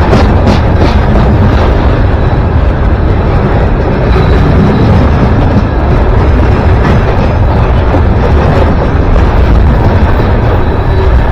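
A train passing close by: a loud, steady rumble of wheels and running gear, with a few sharp knocks near the start.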